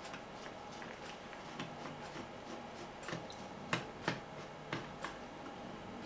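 Faint, irregular light clicks and taps of small radio parts and wires being handled, with two sharper clicks near the middle.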